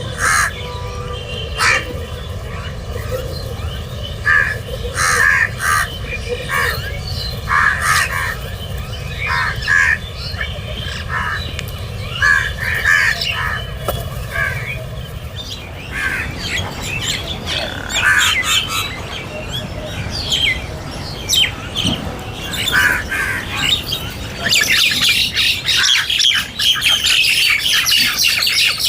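Crows cawing again and again in short, harsh calls. Near the end the calling thickens into a dense chatter of many birds.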